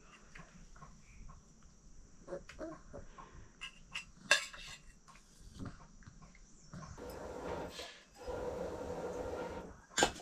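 Scattered clinks and knocks of dishes and metal utensils, the sharpest about four seconds in. In the second half come two stretches of steady noise lasting a second or two each, and there is another knock near the end.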